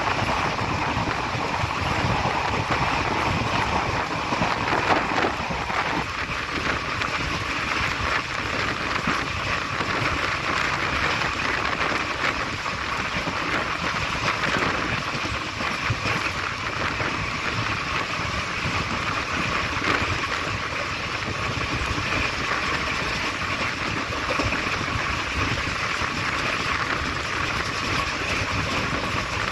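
Steady running noise of a moving passenger train heard at an open coach window: wheels on the rails and wind rushing past, with a slight change in tone about six seconds in.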